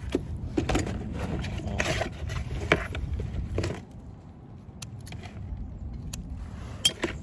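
Handling noises of scraping and rustling over a low rumble, turning quieter after about four seconds with a few sharp clicks, the loudest near the end.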